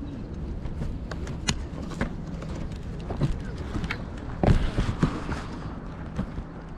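A string of small clicks and knocks over a steady low rumble, with a louder knock about four and a half seconds in.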